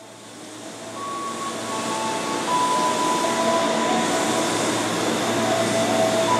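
Passenger train cars rolling slowly along the track, a steady rail rumble that grows louder over the first couple of seconds and then holds. Several thin high tones come and go over the rumble.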